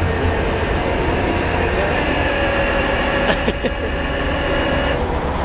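Road vehicle running: a steady low engine and road rumble with a faint steady whine.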